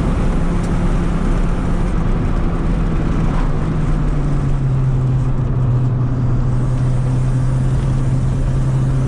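1995 Honda Civic engine running steadily through its original exhaust, which is holed by rust. The note drops slightly about four seconds in.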